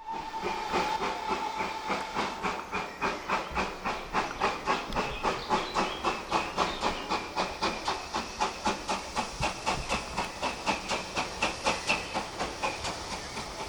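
GWR Manor class 4-6-0 steam locomotive No.7802 Bradley Manor working under steam, its exhaust beating in a steady rhythm of about three chuffs a second over a constant hiss.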